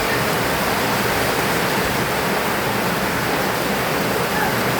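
Heavy rain pouring down: a loud, steady, dense hiss that does not let up.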